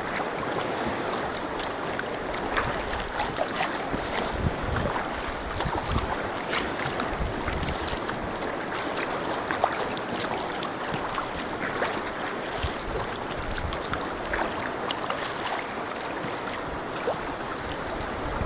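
Water lapping and splashing against a Feathercraft K1 folding sea kayak, with many small irregular splashes and occasional low slaps, and wind noise on the microphone.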